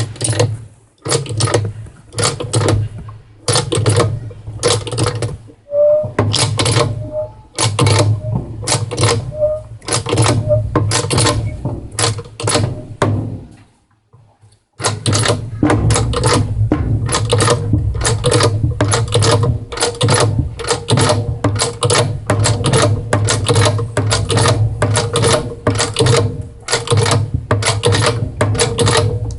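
Rapid mechanical clicking and rattling from tools working fasteners on a washing machine being taken apart. It comes in short bursts at first, stops briefly about halfway, then runs on continuously.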